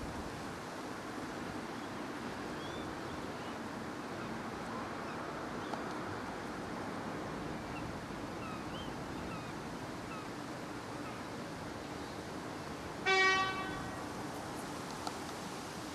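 Steady outdoor background noise with a few faint high chirps. About 13 seconds in, one short vehicle horn honk of under a second stands out as the loudest sound.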